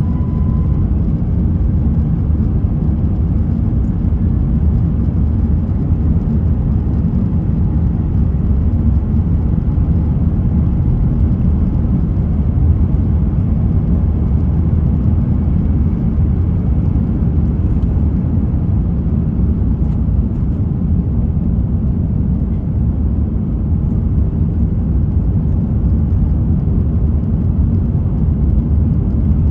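Steady low rumble inside the cabin of an Airbus A350-900: its Rolls-Royce Trent XWB engines and the airflow, heard from an economy seat.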